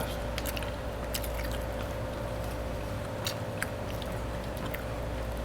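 Close-miked chewing, with scattered soft clicks and smacks of the mouth, over a faint steady hum.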